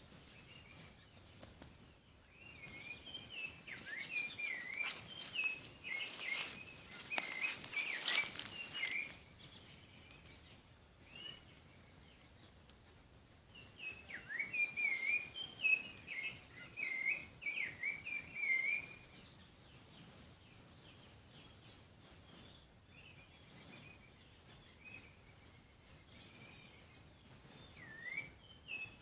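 Songbirds chirping and singing in quick, repeated high phrases, in two busy bouts, one from about two to nine seconds in and another from about fourteen to nineteen seconds in, with scattered calls between. A few brief noise bursts come about six to eight seconds in.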